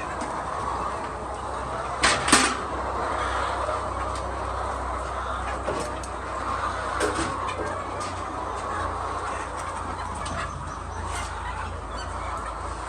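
A flock of chickens clucking and calling over a steady low hum, with scattered clicks and two sharp knocks about two seconds in.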